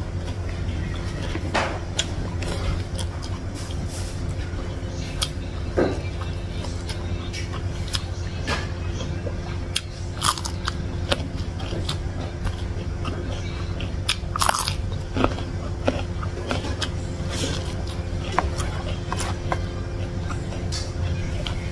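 Close-miked eating sounds: chewing, with irregular sharp crunches as raw green vegetables are bitten. A steady low hum lies underneath.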